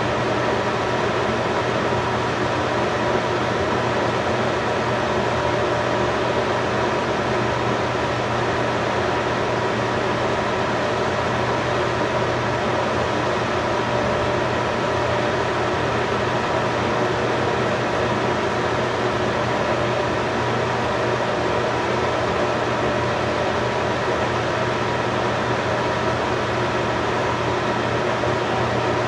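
A steady mechanical hum with an even hiss, holding several fixed tones and never changing.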